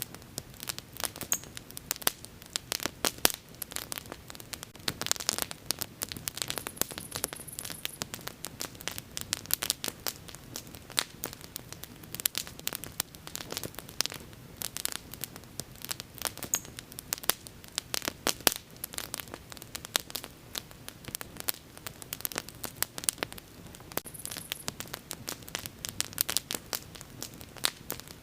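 Wood bonfire crackling: a dense, irregular stream of sharp snaps and pops over the low hiss of burning.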